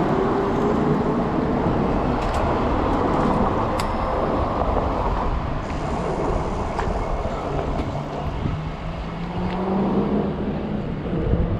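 Wind buffeting the microphone and city traffic heard while riding an electric bike through busy streets. A whine climbs in pitch over the first few seconds, and another rises later on.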